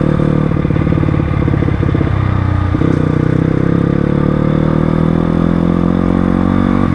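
Crossfire RM250 dirt bike engine running on the move. Its pitch dips about two seconds in, then climbs slowly as the bike picks up speed.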